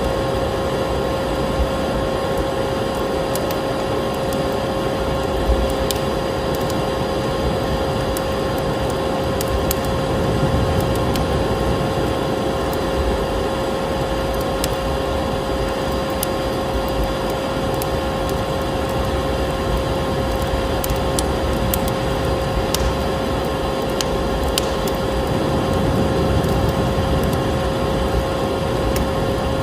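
Vacuum cleaner running steadily with a constant motor whine, layered with a wood fire crackling in a fireplace, its sharp crackles scattered irregularly.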